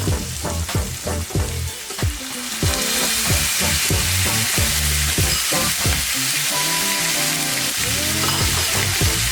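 Food sizzling as it fries in a pan, a steady hiss that thickens about three seconds in. Background music with a steady beat and a bass line plays alongside.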